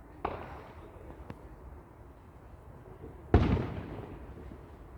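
Fireworks going off: a bang just after the start, a faint crack about a second in, then a loud bang a little after three seconds that rumbles away over about a second.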